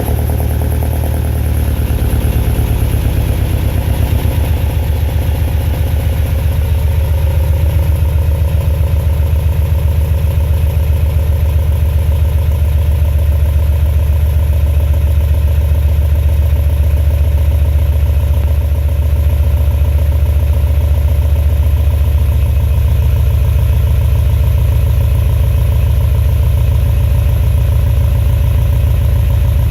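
Gen III 5.3-litre V8 with an MS4 camshaft and 243 heads, just started for the first time and settling from a busier first couple of seconds into a steady idle with an evenly pulsing beat. It is running on a tune not yet set up for the cam.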